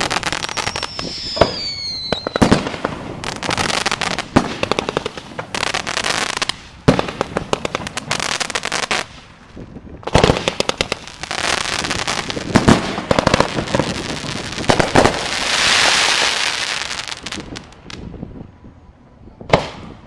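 Aerial fireworks display: rapid crackling and repeated sharp bangs of shells and salutes, with a falling whistle near the start and a rushing hiss that swells and fades about three-quarters of the way through.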